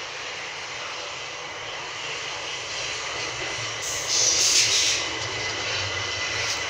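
Southern Class 377 electric multiple unit running into the platform: a steady rumble of wheels on rail that grows as the train nears, with a loud rush of noise about four seconds in as the cab passes close.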